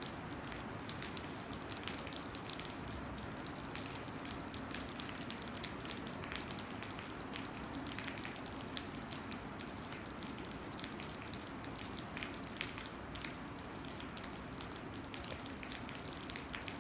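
Steady rain, an even hiss with many separate drops striking close by.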